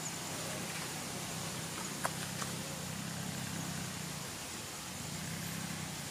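Distant diesel locomotive approaching on the line, its engine a low drone that swells and fades under steady outdoor background noise. A single sharp click sounds about two seconds in, with a fainter one just after.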